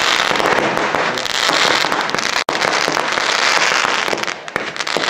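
Firework display: a dense, continuous barrage of crackling and popping firework effects, which cuts out for an instant about halfway.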